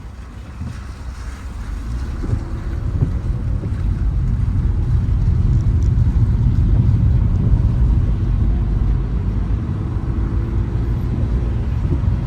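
A car driving, its low engine and road rumble building over the first four seconds and then holding steady.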